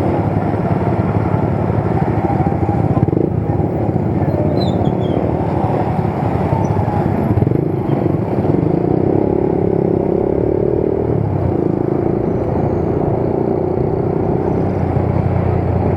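Motorcycle engine running on the move, with steady wind and road noise over the microphone. An engine tone comes up more clearly about halfway through and holds to the end.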